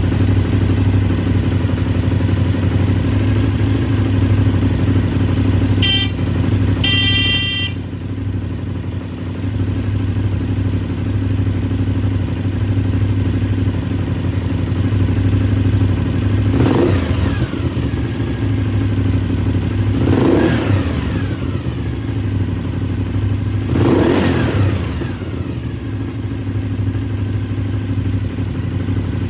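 Suzuki TL1000S's 90-degree V-twin idling steadily, revved in three short throttle blips about three and a half seconds apart in the second half, each falling back to idle. A brief high-pitched tone sounds about six to seven seconds in.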